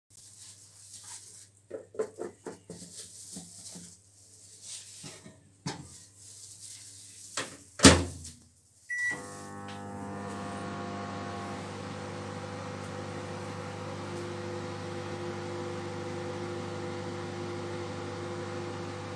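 Clicks and knocks of bowl and spoon handling, a loud clunk near eight seconds in as the microwave door shuts, and a short beep about a second later. Then the Panasonic microwave oven runs with a steady hum for the rest.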